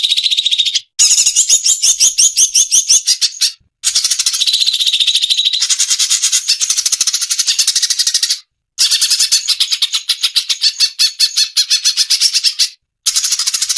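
Cucak cungkok song: loud, rapid, chattering runs of fast repeated high notes, delivered in bouts of a few seconds with four brief silent breaks between them.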